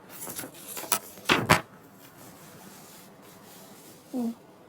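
Rubbing and scraping handling noises with a few sharp knocks about a second in, then a brief grunt-like voice sound near the end.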